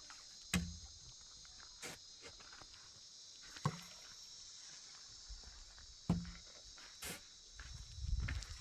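Steady high chirring of insects such as crickets, with three sharp knocks, each with a low thud, spaced about two and a half seconds apart, and low rumbling near the end.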